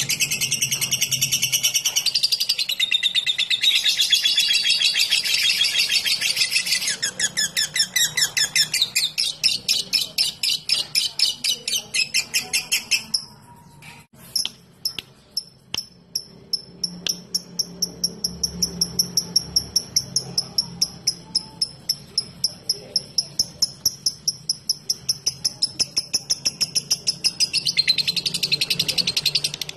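Lovebird singing a long, continuous high chatter (ngekek). About seven seconds in it breaks into a fast run of short, sharp ticking chirps (ngetik). After a brief pause about halfway it keeps up a steady ticking of about four to five chirps a second, then returns to continuous chatter near the end.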